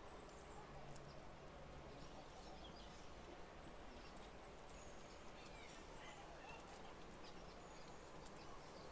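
Faint outdoor ambience with distant birds calling now and then in short high chirps.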